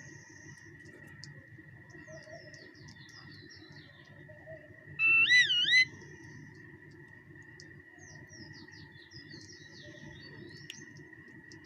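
Small birds chirping in quick falling notes over a steady high-pitched tone, with one loud wavering whistled call about five seconds in.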